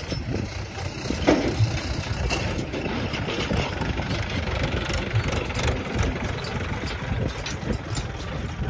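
Heavy machine engine running steadily, with a few short knocks over it, the clearest about a second and a half in.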